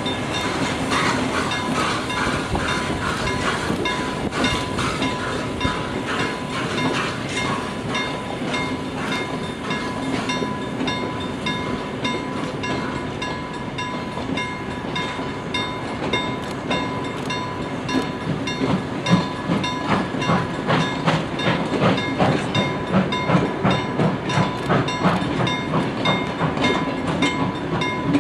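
Passenger coaches of a steam-hauled train rolling across a level crossing, wheels clacking rhythmically over the crossing rails, the clacking heavier in the second half. A steady ringing tone, fitting the crossing's warning bell, sounds throughout.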